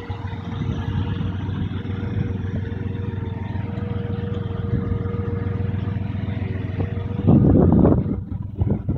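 The 1965 Buick Skylark's engine idling steadily. About seven seconds in, a short, louder burst of noise cuts across it.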